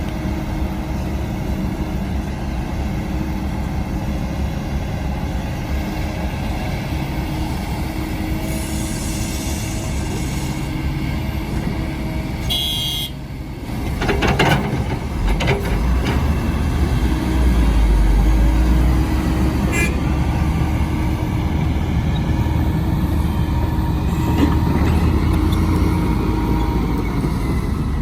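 Heavy earthmoving machine's diesel engine running steadily under work. About halfway it briefly drops, then a few metallic clanks and a louder, deeper engine run follow.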